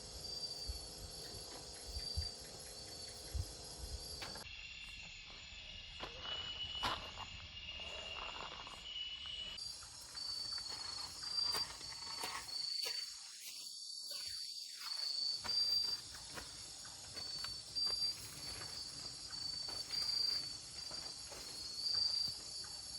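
Steady high chirring of forest insects, with scattered short knocks and clicks over it. The insect sound changes abruptly about four seconds in and changes back about halfway through.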